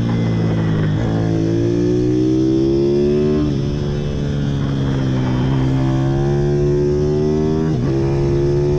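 Pit bike engine accelerating, its pitch climbing and then dropping sharply at each upshift, three times.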